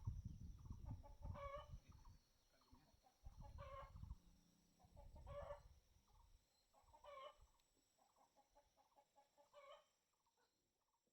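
Chickens clucking faintly, a short call about every two seconds, with a low rumble under the first few calls; it all stops near the end.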